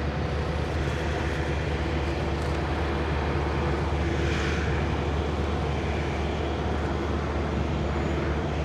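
Diesel semi-truck engines idling, a steady low rumble, with a brief rise of hiss about halfway through.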